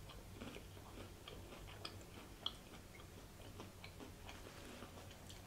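Faint chewing with scattered soft mouth clicks and ticks, one slightly louder click about two and a half seconds in.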